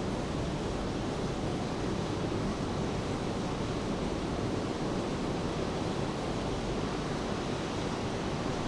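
Steady rain with ocean surf, an even wash of noise that never changes, with no single drops or wave breaks standing out.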